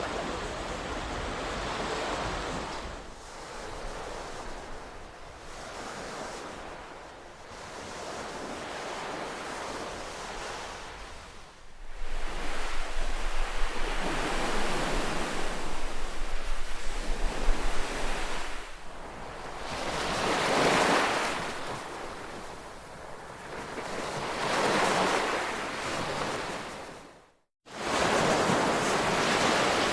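Ocean surf, with waves washing in one after another, swelling and easing off every few seconds and growing louder about twelve seconds in. A low wind rumble on the microphone comes in for several seconds near the middle, and the sound cuts out for an instant near the end.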